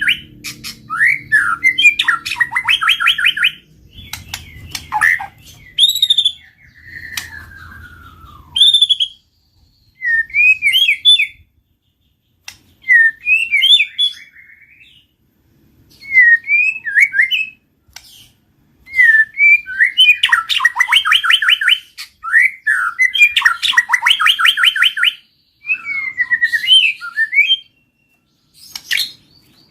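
White-rumped shama singing: loud phrases of rapid repeated notes, trills and gliding whistles, with short pauses between them. One long whistle falls in pitch about seven seconds in.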